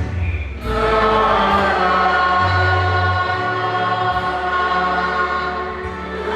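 A choir singing a slow hymn in long held chords, the notes changing every second or so over a low bass line.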